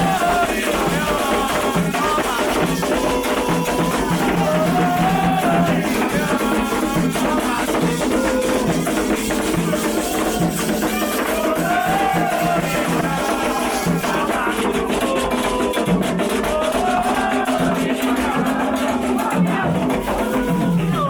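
Candomblé ritual song: voices singing a wavering melody over a steady drum beat, with a shaken rattle.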